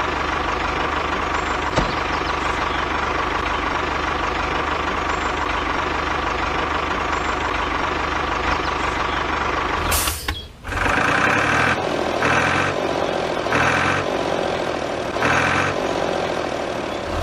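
Mini tractor model's engine sound running steadily. About ten seconds in it breaks off briefly, then resumes with a beep repeating a little under once a second over it, like a reversing alarm.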